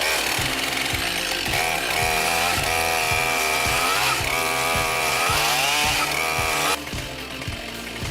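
Chainsaw running under load, its pitch rising and falling as it cuts into a water oak stump, over background music with a steady beat. The saw sound drops out about seven seconds in.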